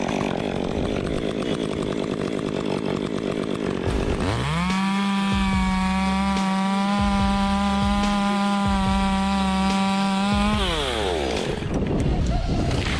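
Two-stroke chainsaw running at a lower, uneven pitch, then revving up about four seconds in to a steady high-pitched full-throttle whine that holds for about six seconds before the revs drop away.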